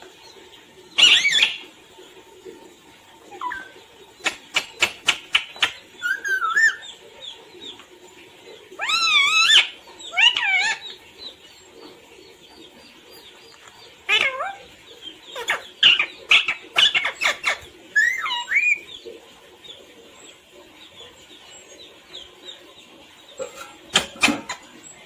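Pet parrot calling: a string of short squawks and whistled calls that bend up and down in pitch, with sharp clicks in between.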